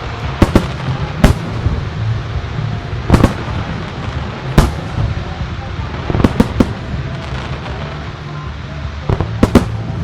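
Aerial firework shells from Nomura Hanabi bursting with sharp bangs at irregular intervals, some singly and some in quick clusters of two or three near the middle and end.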